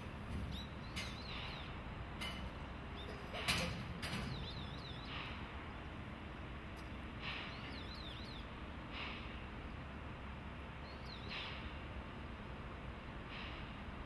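Small birds chirping close by: short sharp calls and quick warbling trills every few seconds, the sharpest about three and a half seconds in, over a steady low background rumble.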